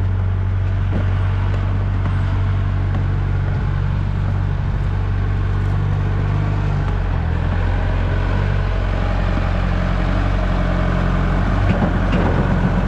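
1967 JCB 3C Mk 2 backhoe loader's diesel engine idling steadily, with a few faint knocks near the end.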